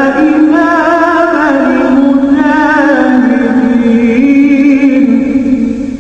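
A solo voice singing one long, drawn-out melismatic phrase with vibrato, swooping up at the start and fading near the end.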